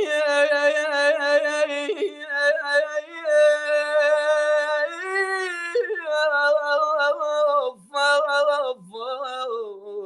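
A man singing an unaccompanied Iraqi mawwal without clear words, holding long vowel notes with a quavering ornament. The pitch steps up and down, and there are short breath breaks near the end.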